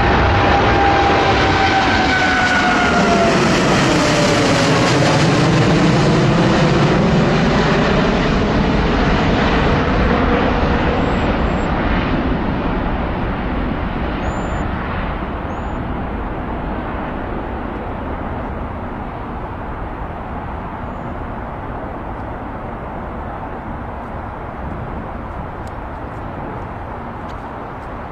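Boeing 777-9's twin GE9X turbofan engines at take-off power as the airliner passes: a loud roar with a whine that falls in pitch about two to five seconds in, then the roar fades slowly as the jet moves away.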